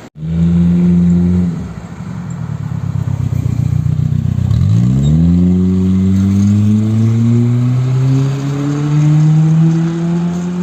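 Chevrolet Captiva's four-cylinder engine running through an exhaust fitted with a 2.25-inch exhaust cutout (diffuser): a brief held rev, a drop back to a low rumble, then a slow, steady climb in revs from about halfway through.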